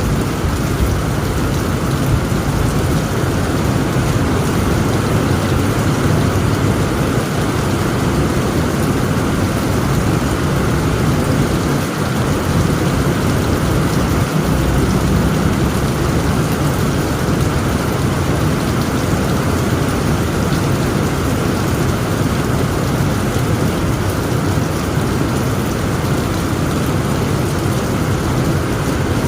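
Heavy rain falling steadily on a tent roof, with a continuous low rumble of thunder underneath.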